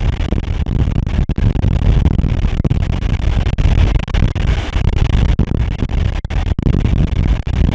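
Special passenger train hauled by an SU45 diesel locomotive running along the line: a loud, continuous rumble and noise of the train in motion, with no let-up.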